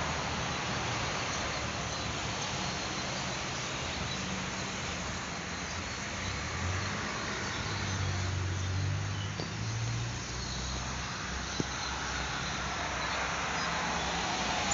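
Heavy-duty exhaust fan freewheeling in the wind: a steady rushing noise under a low hum that wavers in pitch, with two brief clicks in the second half.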